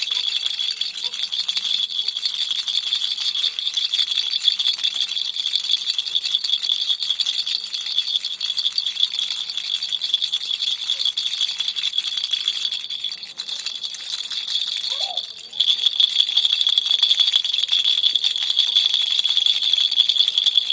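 Baby's toy rattle shaken rapidly and continuously, a dense, high-pitched rattle. About two-thirds of the way through it eases off for a couple of seconds, then comes back louder.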